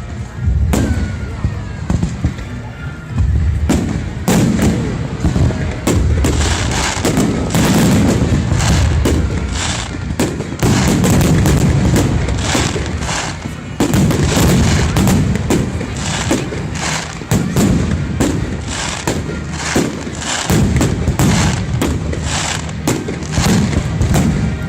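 Fireworks display going off: a dense run of sharp bangs and crackles in quick succession over deep booms.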